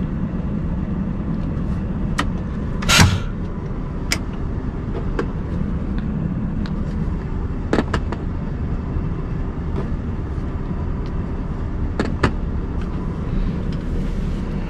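Scania R580's V8 diesel engine running steadily, with scattered clicks and rattles and a louder knock about three seconds in.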